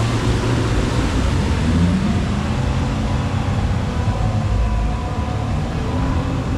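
Speedboat engines running with a steady low rumble and an even rush of noise above it.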